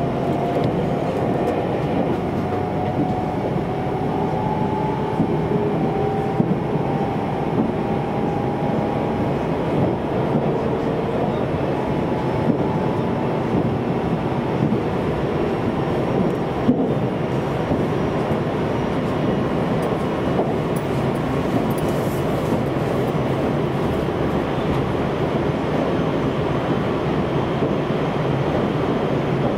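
Steady running noise inside a JR Central 373 series electric train at speed: wheels rumbling on the rails, with a faint whine in the first ten seconds or so.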